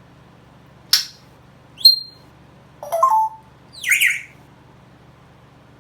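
African grey parrot giving four short calls about a second apart, a mix of sharp whistles and harsher squawks, some rising and some falling in pitch.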